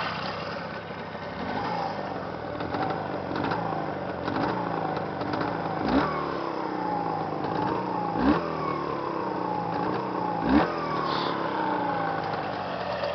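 A new engine running and being blipped on the throttle over and over: each rev climbs quickly, then falls back to idle, several times.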